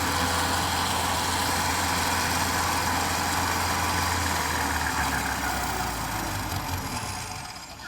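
An engine running steadily at idle, then fading away over the last few seconds.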